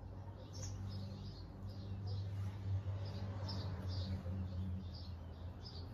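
Small birds chirping, short high calls repeating about two or three times a second, over a steady low hum.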